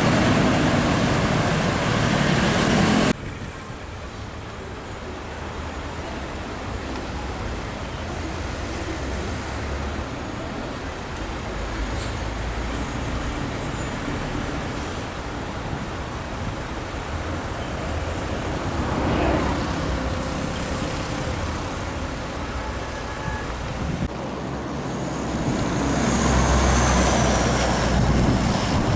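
Expressway traffic passing: a steady wash of truck and car noise, loud at first and dropping sharply about three seconds in. One vehicle passes about two-thirds of the way through, and the traffic grows louder again near the end.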